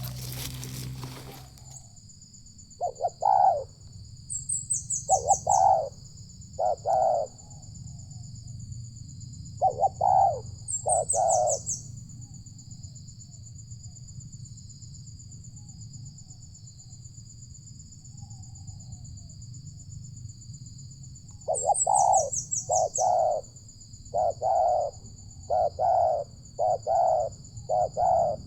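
Spotted dove cooing in short repeated phrases of two or three notes, quiet for a long stretch in the middle and then calling again in quick succession near the end. A steady high-pitched insect buzz runs underneath, swelling into a louder pulsing trill every several seconds. A brief burst of rushing noise comes at the very start.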